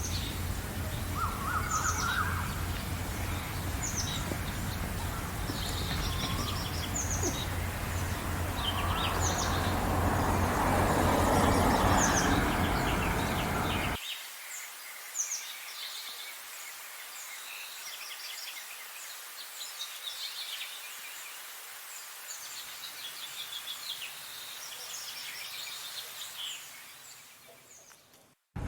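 Many small songbirds chirping and trilling together in a morning chorus. For the first half this sits over a low steady hum and a rushing noise that swells and falls. About halfway through the hum cuts off suddenly, leaving the birdsong alone until it fades out near the end.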